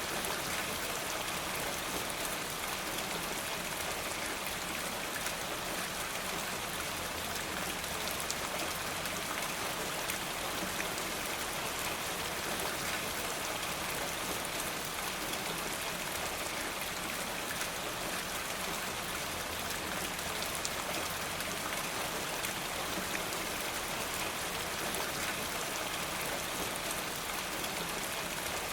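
Steady rain falling: an even wash of many small drops with fine pattering.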